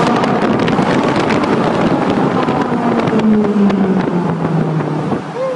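Ferrari 458 Italia's V8 engine running loud in a tunnel, its pitch falling slowly over the second half as the revs come down.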